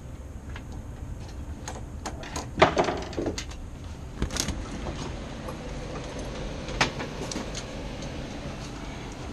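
Sheet-metal access panel of an HVAC air handler being handled as the unit is opened: a rattling metal clatter a few seconds in, then several sharp clicks and clanks, over a steady machine hum.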